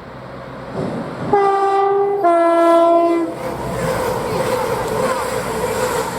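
Class 222 Meridian diesel unit sounding its two-tone horn, a higher note then a lower note of about a second each, given as a greeting from the driver; then the noise of the train running past, with a steady engine tone.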